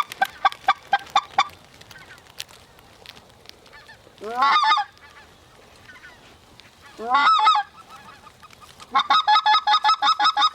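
Goose honking and clucking: a quick run of clucks, two longer rising honks about four and seven seconds in, then a fast, even string of clucks near the end.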